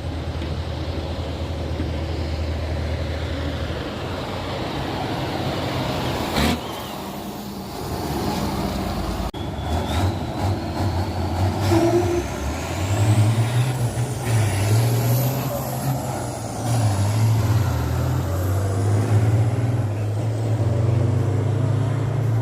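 Heavy truck tractors' diesel engines running and revving, the engine note shifting up and down. A short sharp burst comes about a third of the way in, and over the second half a high whine rises and falls in pitch with the engine.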